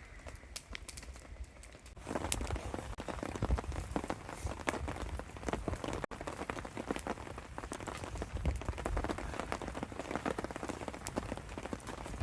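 Torrential rain falling, a dense patter of drops that gets suddenly louder about two seconds in.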